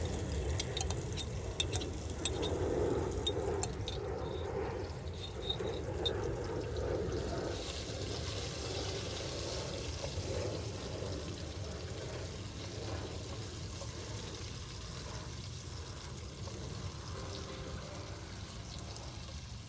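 Diced onion and ginger frying in hot oil in a pot, a steady sizzle, with a few light clicks in the first few seconds.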